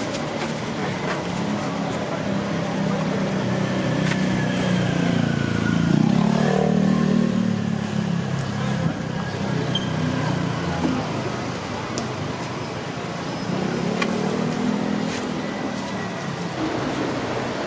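Street traffic: a vehicle engine running close by, swelling to its loudest about six seconds in, with scattered clicks.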